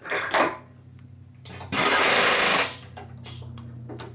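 Shop machine tool motor running with a steady low hum, and about two seconds in a loud burst of hiss-like noise that lasts about a second and stops sharply.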